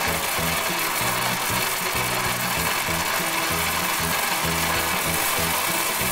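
Background music with a steady beat, over a continuous rattling hiss of small plastic pellets pouring from a toy silo's spout into a plastic toy trailer.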